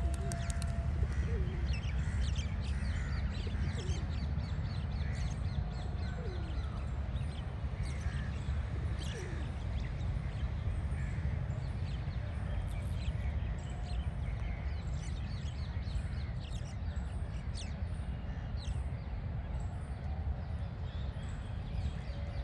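Many birds calling at once: a dense, continuous chorus of short chirps and calls over a steady low rumble.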